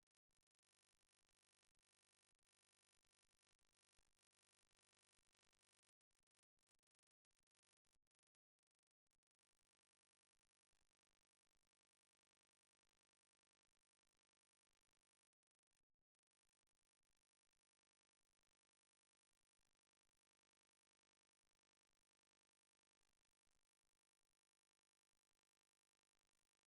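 Near silence: only a very faint noise floor.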